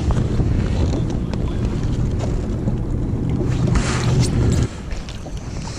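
Jet ski engine running steadily at low speed, with water splashing and wind on the microphone; the engine hum drops away abruptly about four and a half seconds in.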